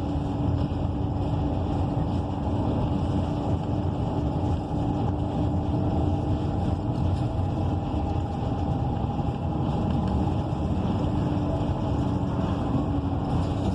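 Interior sound of a 2014 ENC EZ Rider II BRT transit bus under way, with its Cummins Westport ISL G natural-gas engine and Allison B300R automatic transmission running. A steady hum sits over even road and engine noise.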